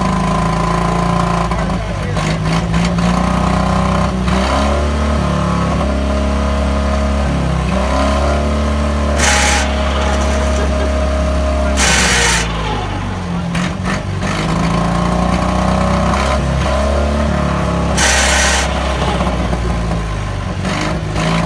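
The small gasoline pony (starting) motor of a 1952 John Deere R running, its pitch sagging and recovering as it turns over the tractor's two-cylinder diesel before the diesel fires. Three short loud hisses break in, about nine, twelve and eighteen seconds in.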